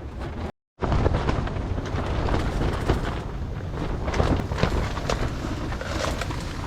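Strong wind buffeting the microphone: a heavy, continuous low rumble with crackling, cut by a brief dead-silent gap about half a second in.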